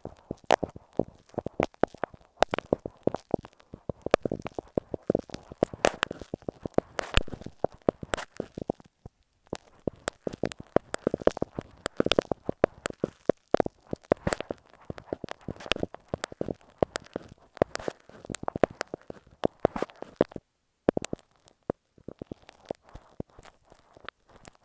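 A glue stick worked against masking tape wrapped over an earphone microphone, heard very close. It makes crackly, sticky scratching broken by many sharp clicks, with short pauses about a third of the way in and again near the end.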